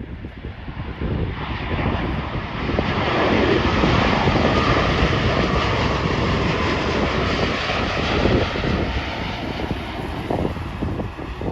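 Jet airliner on landing approach passing the microphone, its engine noise building to a peak in the middle and easing off near the end. Wind buffets the microphone underneath.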